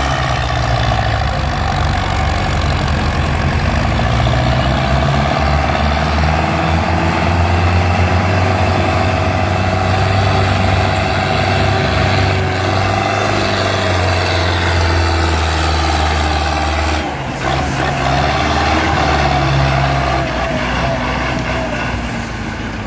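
Tractor engine running loudly at high revs, its pitch shifting up and down, with a brief drop about seventeen seconds in.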